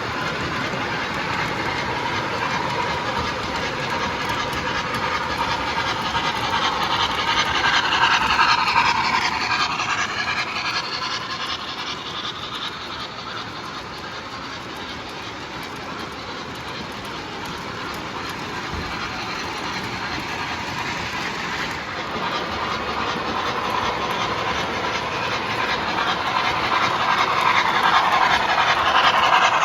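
MTH model train running on a track loop, wheels clattering on the rails. The clatter swells as the train passes close, about eight seconds in and again near the end, and fades in between.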